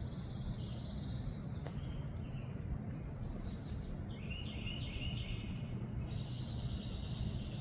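Small songbirds chirping, with many short chirps and a brief trill, over a steady background of outdoor noise.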